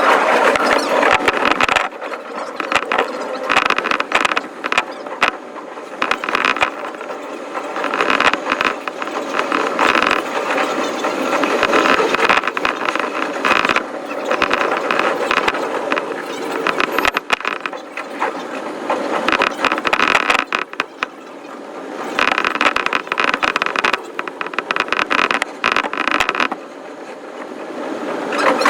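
Running sound of a JR East Shonan-Shinjuku Line train played back fast, so its rumble and clicks run together into a quick mechanical rattling that swells and dips.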